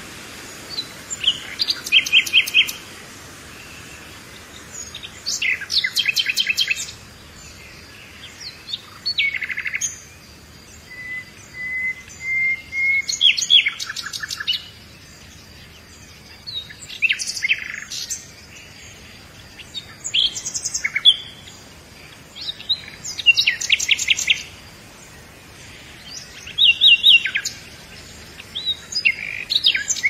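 Songbirds singing: short phrases of rapid high notes repeated every three to four seconds, with one thin whistle rising slowly near the middle, over a faint steady hiss.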